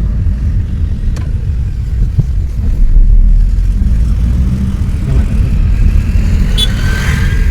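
Car driving, heard as a loud, steady low rumble.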